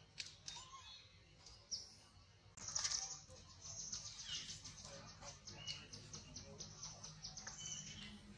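Faint birdsong: a fast run of high chirps, about five a second, starts about two and a half seconds in, with a few short lower calls among them.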